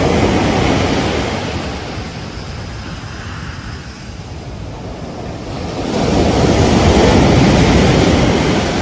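Ocean surf breaking on a beach, rising to a louder rush near the start and again from about six seconds in.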